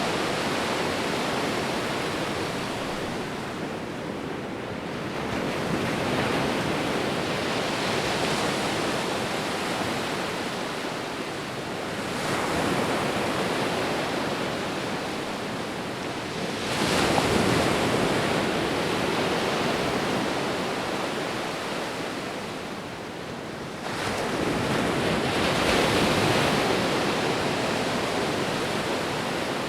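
Sea waves breaking and washing on a shore, a steady rush of surf that swells four times, roughly every five to seven seconds, the surge about two-thirds of the way through the loudest.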